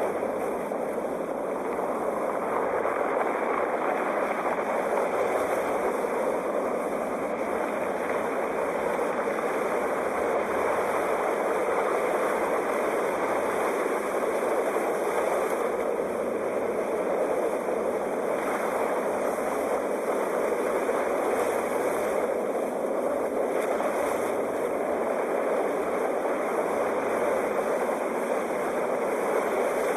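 Ocean waves: a steady rushing wash of surf with little rise and fall.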